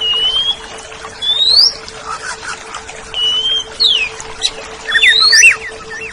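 Oriental magpie-robin (kacer) singing: clear whistled phrases of rising sweeps and flat whistles, repeated about every second and a half, with a falling note and lower wavering notes near the end. A faint steady hum runs underneath.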